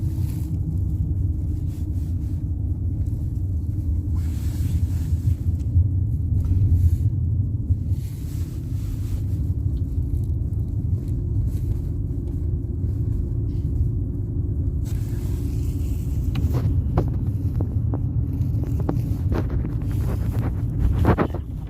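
Steady low rumble of a car's engine and road noise, heard from inside the moving car. A few clicks and knocks come in near the end.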